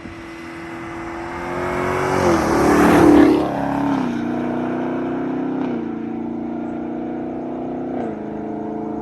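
Chevrolet Camaro SS V8 on its stock exhaust, accelerating hard from a 40 mph roll and passing close by. It is loudest about three seconds in, where the note drops in pitch as it goes past, and it shifts up twice as it pulls away.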